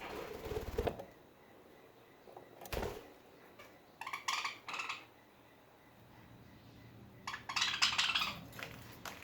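Pet budgies moving about their cage, making light clinks and taps on the metal bars and toys. There is a single knock about three seconds in, and short scratchy bursts of chattering or rattling around the middle and near the end.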